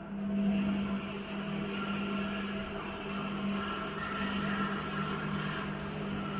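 IFB front-load washing machine running, a steady motor hum with higher whining tones that comes in and grows louder right at the start.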